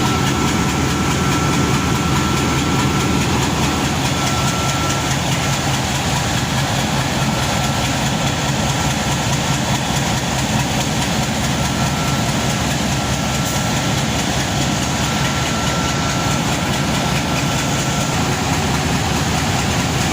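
Sri Lanka Railways Class M4 diesel-electric locomotive idling steadily, a low, even engine sound with a thin steady whine above it.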